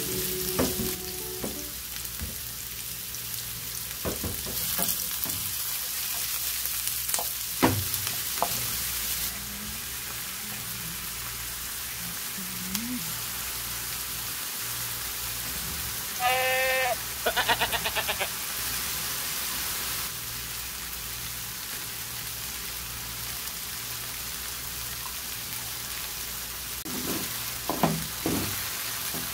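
Diced red onion sizzling steadily in hot oil in a frying pan, with a wooden spatula knocking and scraping against the pan as it stirs, more busily near the end. A brief high trilling sound cuts in about halfway through.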